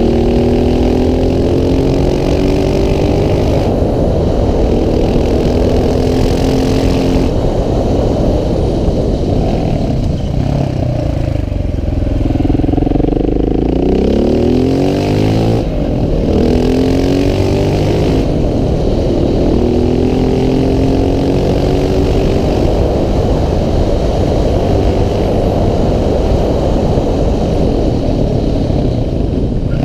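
KTM 690 SMC R's single-cylinder engine pulling hard uphill, its pitch climbing through the gears in repeated rising runs. Around the middle the note falls as the bike slows for a bend, then climbs again, over a steady rush of wind and road noise.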